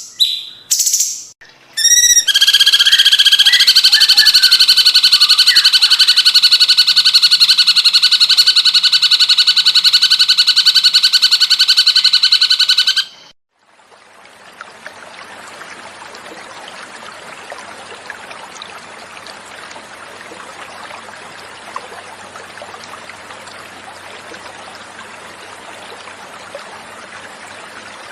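Cucak cungkok calls, then a loud, rapid trill of fast repeated notes held for about eleven seconds that stops abruptly. After a short gap, a steady sound of flowing water, quieter than the trill, takes over for the rest.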